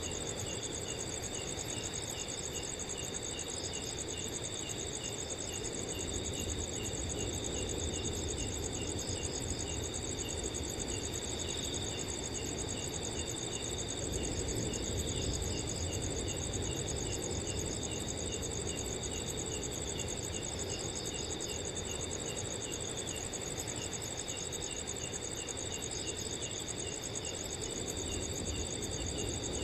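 Several crickets calling together at night: a continuous high trill over a second steady tone, with another cricket chirping regularly about twice a second. Underneath, a soft, even rush of wind.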